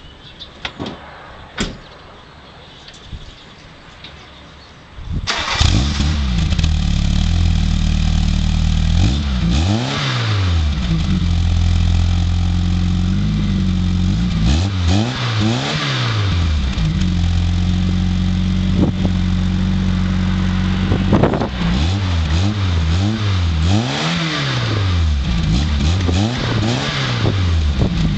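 VW Golf Mk2 1.8 8-valve four-cylinder engine starting about five seconds in after a few faint clicks. It then idles through the exhaust and is revved up and let fall back several times, with a cluster of blips near the end.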